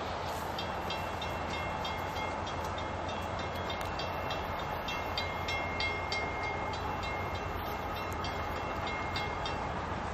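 An approaching diesel-hauled train rumbling. Over it a railway bell rings steadily at about two to three strokes a second, then stops near the end.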